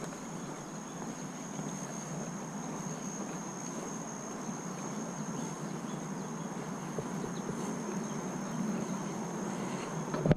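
Insects shrilling in one steady high tone, over a low, even hum of distant road traffic.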